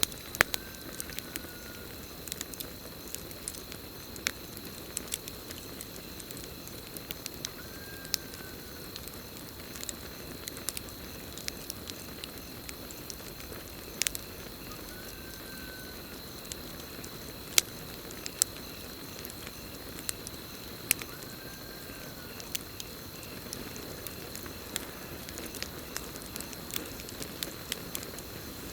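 Campfire crackling, with sharp pops every second or so over a steady hiss, and a steady high cricket trill behind it. A short call that rises and falls recurs every few seconds.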